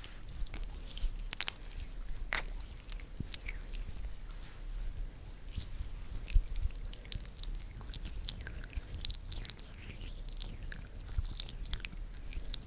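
ASMR hand sounds made close to a sensitive microphone: skin rubbing and fingers moving against each other, giving a dense, irregular crackle of soft clicks and rustles.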